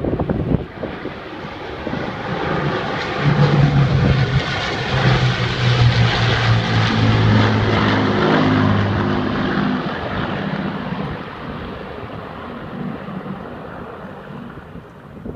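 Avro Lancaster bombers, each with four Rolls-Royce Merlin piston engines, flying past. The deep propeller drone swells up about three seconds in, is loudest for several seconds, then fades away.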